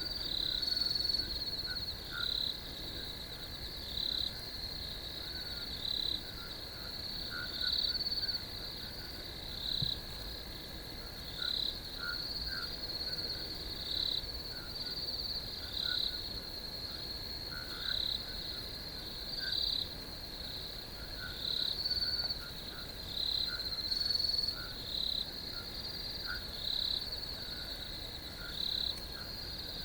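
Crickets and other night insects trilling in a steady high chorus, with louder chirps swelling out of it about every two seconds.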